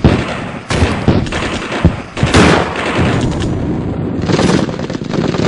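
Battle gunfire sound effects: a dense din of rifle and machine-gun fire, with several loud cracks or blasts standing out, the loudest about two and a half seconds in.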